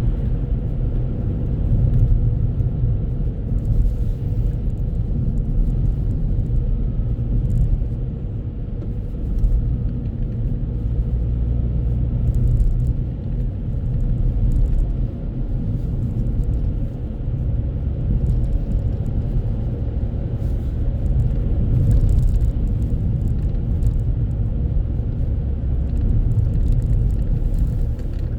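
Car driving at a steady speed, heard from inside the cabin as a constant low rumble of road and engine noise.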